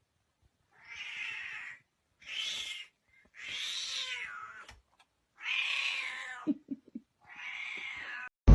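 A cat meowing five times, drawn-out meows with short silent pauses between them.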